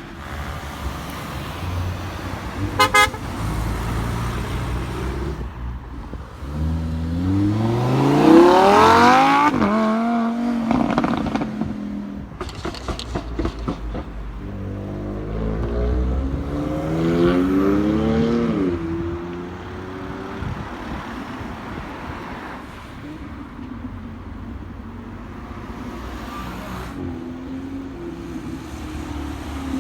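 Cars pulling away, engines revving hard and climbing in pitch in two bursts of acceleration, with a brief car horn toot about three seconds in and idling engine rumble between.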